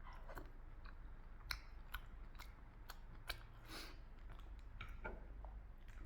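Close-miked chewing and eating sounds: irregular sharp mouth clicks and smacks as food is chewed.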